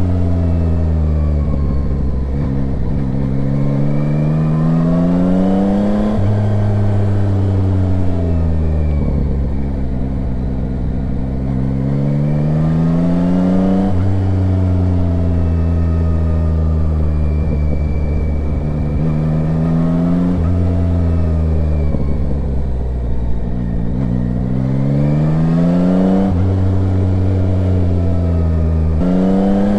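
Yamaha Tracer 9's inline three-cylinder engine heard from the rider's seat, its pitch rising and falling repeatedly as the bike speeds up and slows, with several abrupt gear changes.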